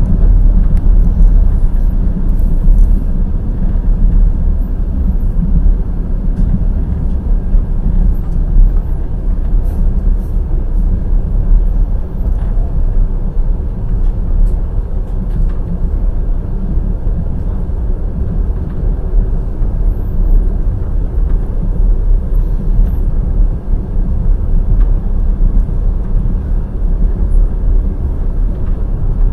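Passenger train running at speed: the steady low rumble and clatter of its wheels on the rails, with a few faint high ticks.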